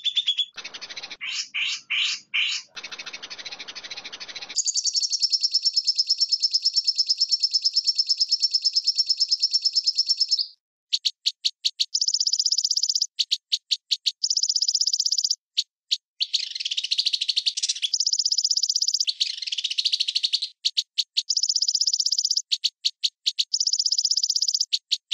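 High-pitched bird-like trilling. A few short trills come first, then one long steady trill lasting about six seconds, then a run of trills and chirps that start and stop abruptly.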